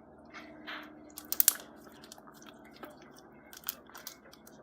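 Slime being squished and poked by hand, giving scattered sharp pops and clicks, with a quick cluster of the loudest pops about a second and a half in.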